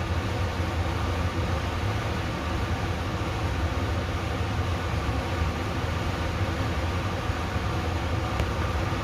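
Steady wind rumbling on the microphone over an even hiss of rain, from a spring rainstorm.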